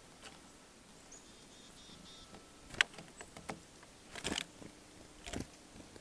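Faint high chirps of small birds, with several sharp clicks in the middle: the loudest about three seconds in, then a quick cluster a little after four seconds and another just after five.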